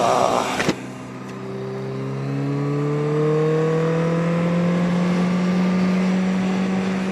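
Yamaha XJ750 Seca's air-cooled inline-four engine pulling up through the revs as the bike accelerates, the pitch climbing for about three seconds and then holding steady at cruise. A short burst of wind noise at the start cuts off abruptly.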